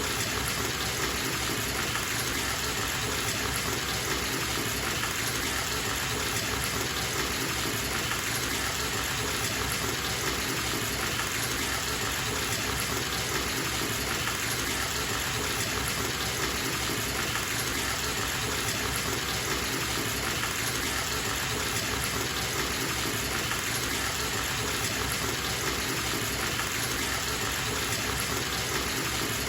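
Bathtub faucet running into a filling tub, a steady gushing rush of water with no change.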